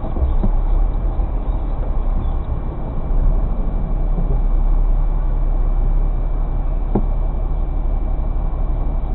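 Car cabin noise while driving: a steady rumble of engine and road noise, with a single short click about seven seconds in.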